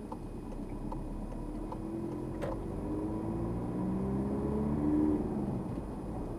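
Car engine heard from inside the cabin, pulling away through a junction: its note rises in pitch as the car accelerates, peaks about five seconds in and then drops back. A single sharp click about halfway through.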